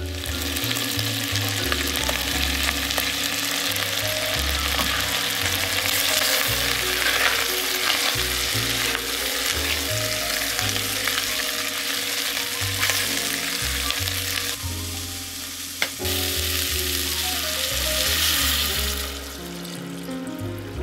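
Bacon, onion and carrot sizzling as they fry in a stainless-steel pot, stirred with a silicone spatula, with a sharp tap about three-quarters of the way through. Near the end the sizzle quietens as water is poured into the pot.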